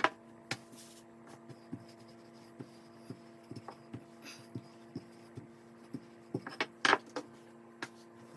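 Wooden rolling pin rolling out puff pastry on a floured work surface: soft, irregular knocks and scrapes with a louder knock about seven seconds in, over a steady electrical hum.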